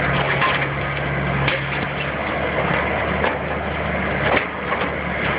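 A heavy demolition machine's engine running steadily, with wood cracking and splintering a few times as the house's framing is torn apart.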